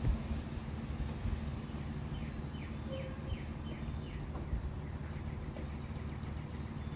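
A bird calling: a quick run of about six short falling notes, about two seconds in, over a steady low background rumble. A few low bumps, the loudest right at the start.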